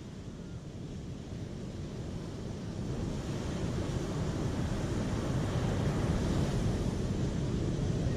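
Rushing water: a steady noise, heaviest in the low end, that swells gradually louder.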